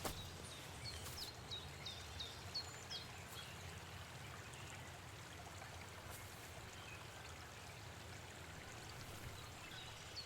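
Faint forest ambience: a steady soft hiss, with a small bird giving a series of short, high, falling chirps, about two a second, in the first few seconds.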